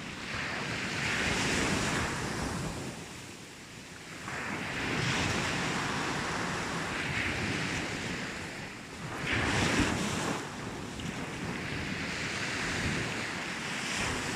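Sea waves breaking on a beach, the surf swelling and falling back in slow surges, with one louder crash about two-thirds of the way through. Wind buffets the microphone.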